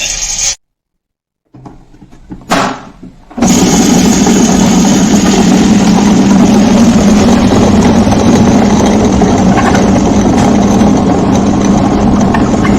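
Ultra Big G+ wet grinder running, its conical stones turning in the drum and grinding green gram: a loud, steady motor-and-grinding noise. It starts abruptly about three seconds in, after a short silent gap and a few brief sounds.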